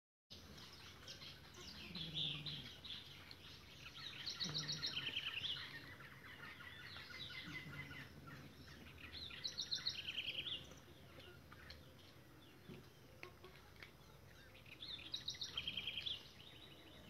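Birds singing: a short song of fast trilled notes, stepping down in pitch, comes back about every five or six seconds, with scattered chirps in between.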